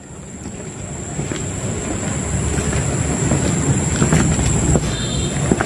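Low rumble of passing road traffic that grows steadily louder, with a continuous high-pitched insect trill over it.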